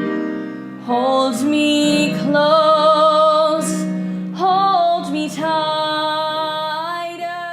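A woman singing the last phrase of a musical-theatre song over sustained instrumental accompaniment, ending on a long held note with vibrato.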